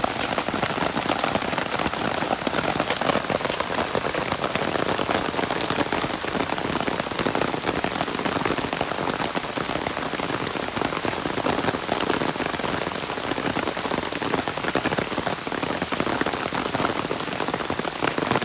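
Steady rain falling on a surface, a dense even patter of many fine drops.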